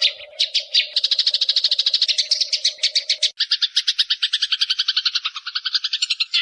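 Eurasian tree sparrows fighting: fast, harsh chattering chirps repeated about eight to ten a second. A faint steady hum lies under the first half and stops at an abrupt change a little past halfway, after which the chatter continues lower and denser.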